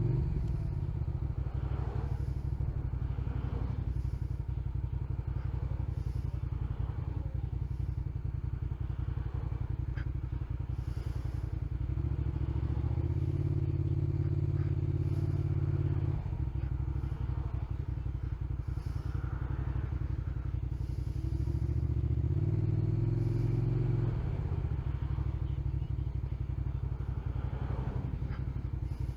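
2002 Suzuki SV650's V-twin engine running at low revs, pulling harder and rising in pitch twice, about twelve and twenty-one seconds in, each time for a few seconds before dropping back suddenly.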